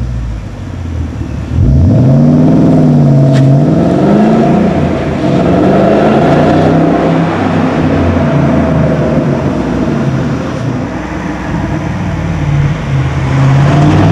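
Ford Mustang GT's 5.0 V8 running loud through a Cherry Bomb Pro axle-back exhaust. About two seconds in it revs up and falls back, then it holds a loud, fairly steady pitch.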